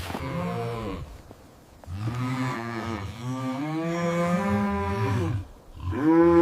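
Cow mooing: a short moo, then a long drawn-out one, and a third moo beginning near the end.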